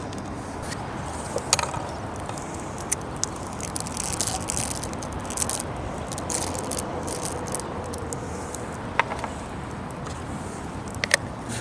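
Small wood fire crackling, with scattered sharp pops over a steady hiss.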